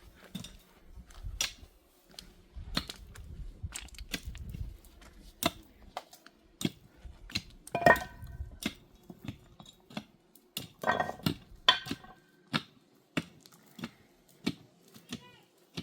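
Irregular sharp clicks and knocks of hard objects being handled and struck, a few every second.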